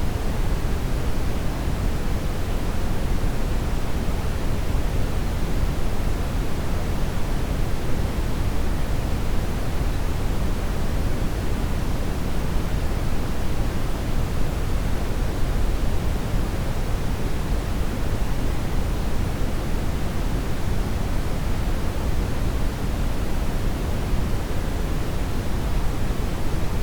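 Steady brown noise: an even, unbroken rushing hiss weighted heavily toward the low end.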